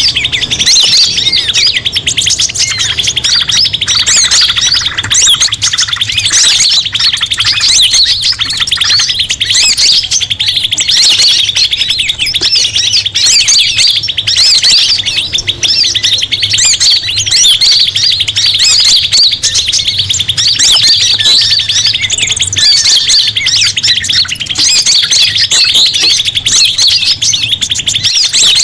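Dense, unbroken chatter of many small birds chirping and trilling at once, loud and without pause: a 'pikat ribut' bird-lure recording of excited, noisy calls used to draw forest birds in.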